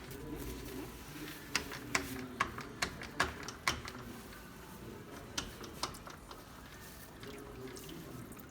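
A series of sharp clicks or crunches, about two or three a second for a couple of seconds, then two more a little later, over faint background voices.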